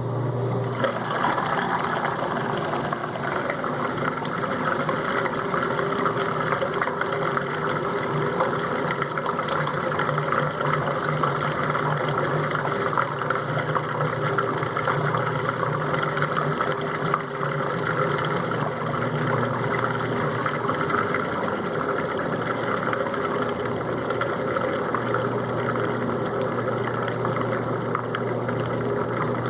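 Whirlpool dishwasher's drain pump starting abruptly and running steadily with a low hum over rushing, gurgling water as it pumps out the first rinse water. The low hum fades about halfway through and comes back near the end.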